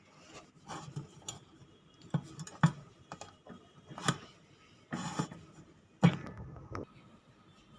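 Kitchenware being handled: a string of irregular knocks and clinks, the sharpest about a third of the way in and again near the end, as the idli container and plates are opened and moved.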